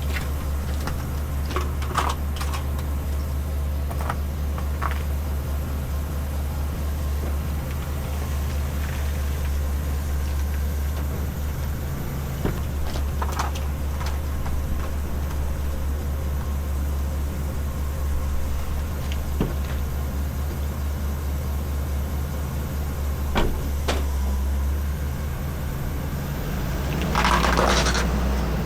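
Ambulance engine idling steadily while it warms up, with scattered knocks and clicks over it. Near the end comes a louder burst of noise lasting about a second and a half.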